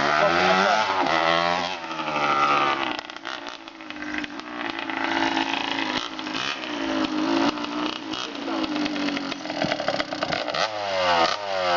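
Small dirt bike engine being revved, its pitch rising and falling, then running more steadily before revving up again near the end.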